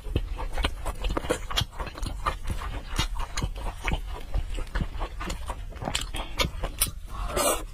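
Close-miked wet chewing and lip-smacking on fatty braised pork, irregular sticky clicks, with plastic-gloved hands squelching as the meat is pulled apart.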